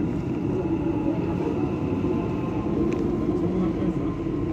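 Dubai Metro train running steadily between stations, heard from inside the carriage: a constant rumble and rolling noise with a faint, steady high whine.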